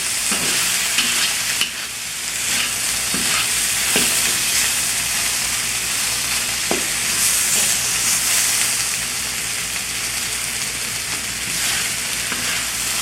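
Stir-fry vegetables and chicken sizzling steadily in a hot pan, with a couple of light taps, likely from the stirring utensil.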